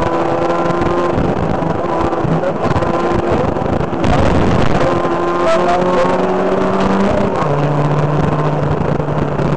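A car engine running at steady revs. Its pitch steps up about four seconds in, getting a little louder, and drops back down near the end.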